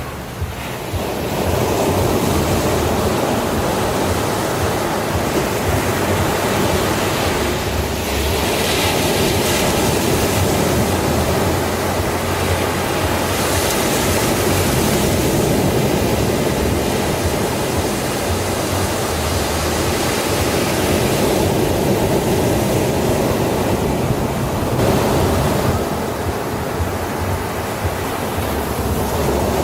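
Ocean surf: sea waves breaking and washing on a beach, a continuous rushing noise that swells and eases.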